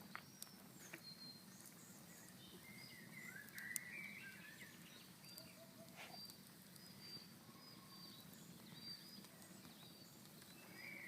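Faint birdsong: short high chirps repeating throughout, with a louder chattering phrase about three to four seconds in. A few sharp clicks sound among them over a low steady background hiss.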